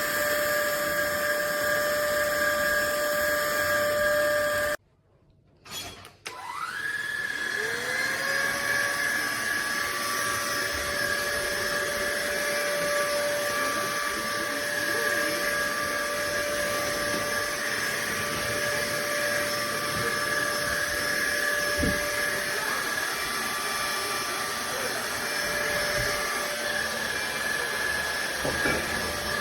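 Fieety 600 W cordless stick vacuum running with a steady high motor whine. It cuts out abruptly about five seconds in, and after a short gap starts again, the whine rising in pitch over a couple of seconds as the motor spins up, then holding steady.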